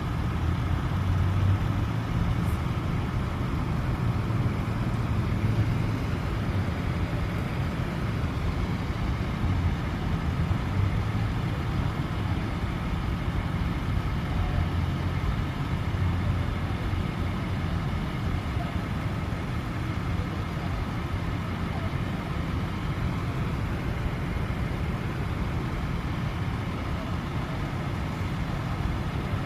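A large vehicle's engine running steadily, a low, even rumble.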